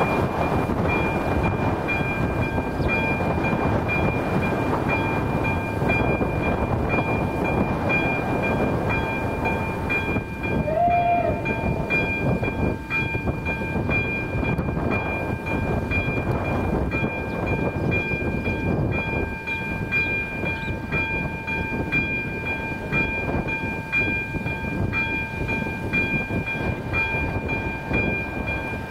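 Continuous loud rumbling noise with several steady high whining tones held over it, and a short, brief tone about eleven seconds in.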